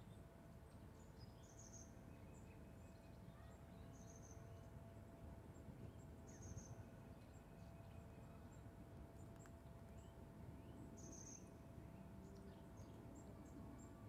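Faint outdoor background: a low, steady rumble with a few short, high bird chirps, about four, scattered through it.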